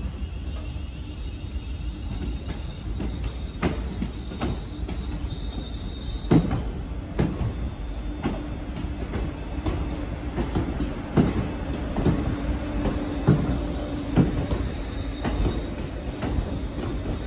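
A Siemens Class 350 Desiro electric multiple unit running slowly past along the platform. Its wheels clack over the rail joints, and the clacks come more often as the train draws level, over a low rumble and a steady hum. A faint high wheel squeal is heard early on.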